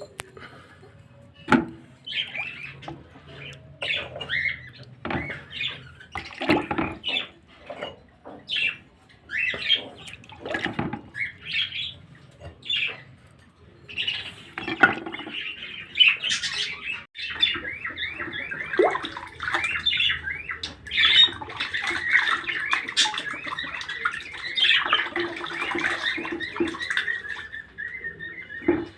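Small caged pet birds chirping and squawking, with a few sharp knocks early on; about halfway through the calls run together into a steady chattering warble.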